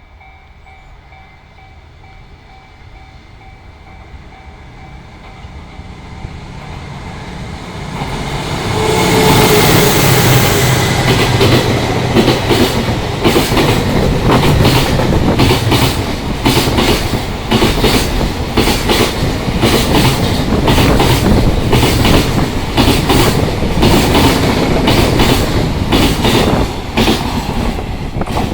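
Freight train passing through a station without stopping: the approaching locomotive grows steadily louder over the first eight seconds or so, then the wagons roll past with a rapid, regular clatter of wheels over the rail joints.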